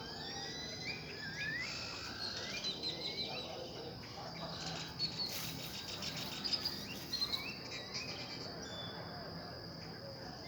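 Several birds chirping and calling over one another in quick rising and falling whistled notes, over a steady high insect trill, with a stretch of rapid chattering in the middle.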